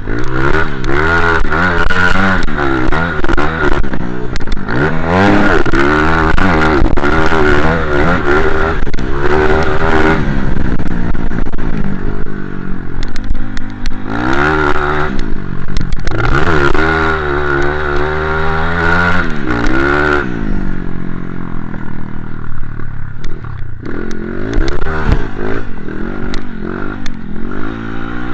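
Motocross dirt bike engine revving hard, its pitch climbing and dropping again and again as it accelerates. From about twenty seconds in the revs ease off and the engine is quieter.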